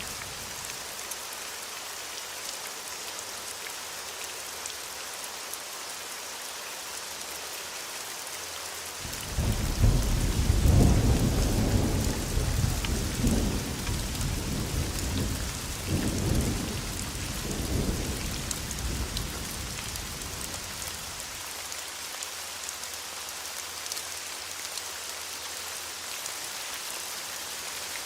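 Steady heavy rain with a roll of thunder: about a third of the way in, a low rumble breaks in suddenly, swells several times, and fades away after about twelve seconds, while the rain runs on.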